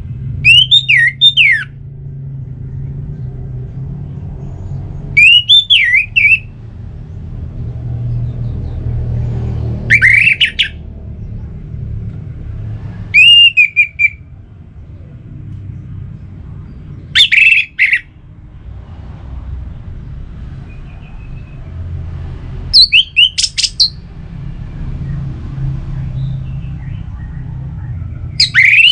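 Orange-headed thrush singing in short bursts of quick, rich whistled notes, about a second each, repeated seven times a few seconds apart. A steady low rumble runs underneath.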